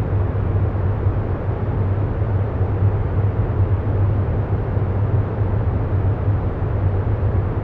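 Steady, low rumbling background noise with no rhythm or clear tones: the ambient sound bed laid under the meditation.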